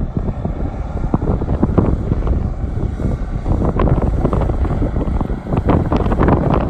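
International 9100-series semi tractor's diesel engine running, with wind buffeting the microphone.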